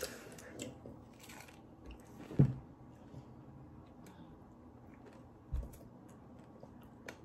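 Children chewing mouthfuls of cake and KitKat, with soft mouth and crunch sounds. There is one sharp, louder crunch or knock about two and a half seconds in and a low thump a little after five seconds.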